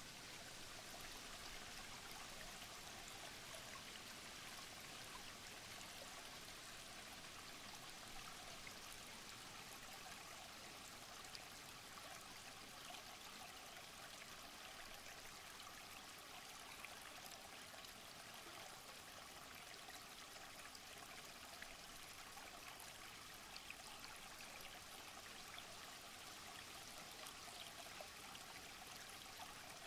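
A stream of water running and trickling steadily, faint, with small splashy ticks scattered through it.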